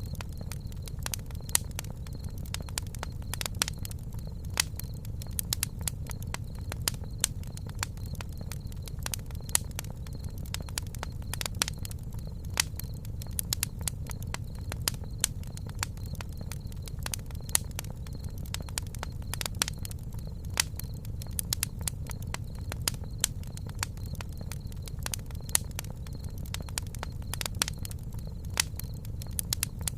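Campfire burning, with irregular sharp crackles and pops several times a second over a steady low rumble.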